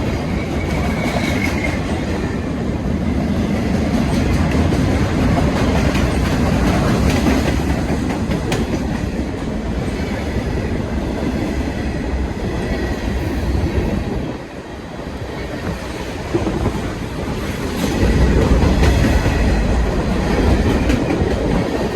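A train's cars rolling past close by, a continuous rumble of steel wheels on rail with clickety-clack over the rail joints. The sound dips briefly a little over halfway through, then swells louder again near the end.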